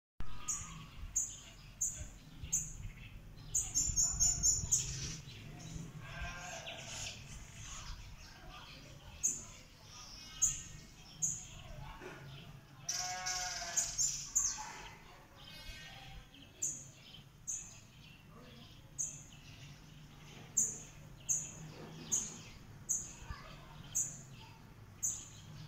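Northern red bishop calling: short, high chips repeated a little faster than one a second, in runs with pauses between them. A rapid buzzy burst comes about four seconds in, and a lower, warbling call around the middle.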